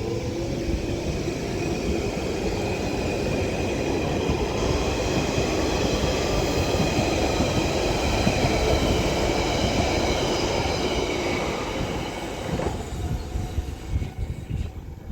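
London Underground Central Line 1992 stock train pulling away, its motors giving a rising whine over wheel and rail noise. The sound fades away near the end.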